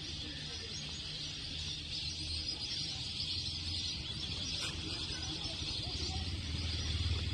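Rural outdoor ambience: a steady high-pitched chorus of wildlife over a low engine hum that grows louder near the end.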